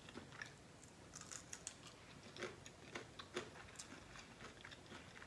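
Faint chewing of a mouthful of food, with soft mouth noises and a few light clicks scattered through.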